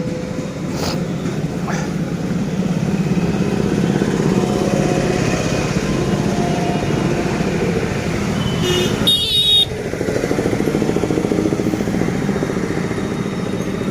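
A motorcycle engine runs with a fast, steady pulsing rumble. A vehicle horn toots briefly about nine seconds in.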